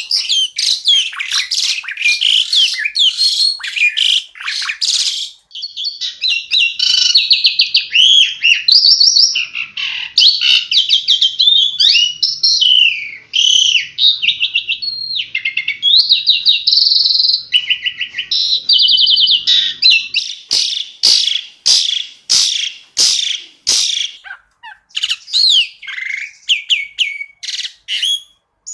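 Asian pied starling (jalak suren) singing a long, varied song of whistles, chirps and rapid trills, with a run of sharp clicking notes about twenty seconds in.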